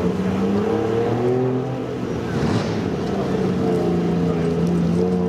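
Car engine running with a steady pitch that wavers slightly, dipping briefly about halfway through.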